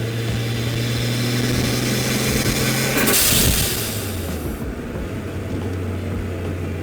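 Turbocharged R32 Nissan Skyline engine held at steady revs. About three seconds in the throttle closes and the blow-off valve vents with a loud hiss lasting over a second, while the engine note drops to a lower, steady tone.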